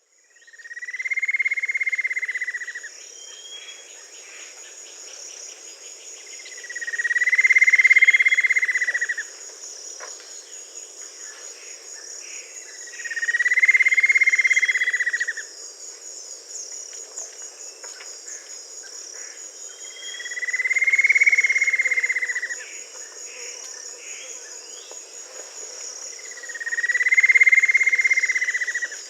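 A steady high chorus of crickets or other insects, with a loud, long, buzzy call from an unidentified animal repeated five times, about every six seconds. Each call rises briefly, then holds level for about two seconds.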